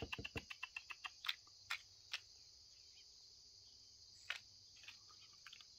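Faint, steady high-pitched drone of insects outdoors. A quick run of ticks in the first half second is followed by a few isolated sharp clicks.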